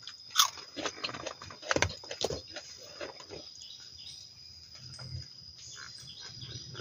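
A steady high-pitched insect drone in the forest, with scattered short clicks and knocks during the first few seconds.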